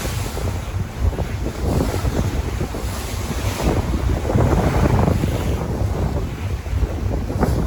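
Sea waves washing in, with wind noise on the microphone.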